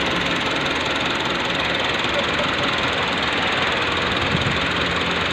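Tractor's diesel engine running steadily, a dense mechanical clatter; a deeper low engine note strengthens near the end.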